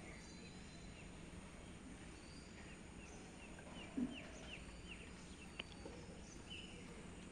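A bird calling outdoors: a quick run of short falling high notes, about three a second, through the middle, with a single further call later. A soft knock near the middle is the loudest sound, followed by a sharp click.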